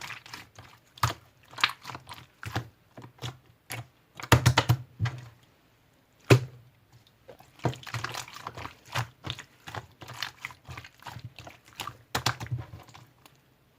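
Slime being pressed, squeezed and stretched by hand, giving an irregular run of sticky clicks and crackly pops, several a second, with denser crackling about four seconds in and again around eight seconds.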